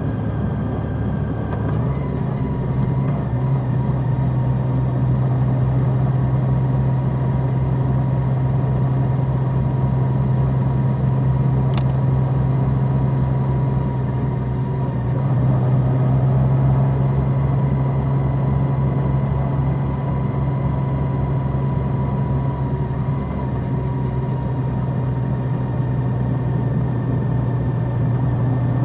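Large motorcycle's engine running at a steady pitch while riding, with a brief click about twelve seconds in.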